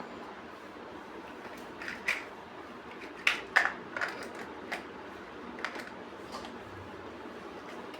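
Plastic building bricks being handled and pressed together: a series of short sharp clicks, irregularly spaced, the loudest two coming about three and a half seconds in, over a steady hiss.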